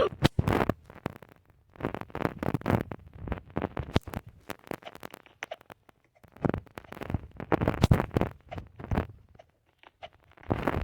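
Close, scratchy rustling and crackling noises in bursts of about a second, separated by short pauses.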